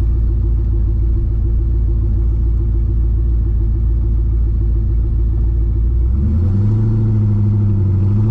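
Car engine running at low, steady revs, then picking up about six seconds in and holding at a higher pitch as the car accelerates gently.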